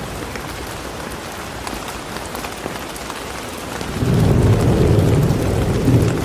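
Steady rain falling, with a low rumble of thunder that starts about four seconds in and grows louder.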